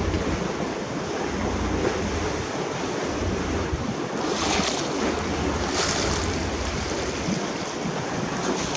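Wind buffeting the microphone over the steady rush of sea and the moving boat's wash, with two brief hissing splashes near the middle.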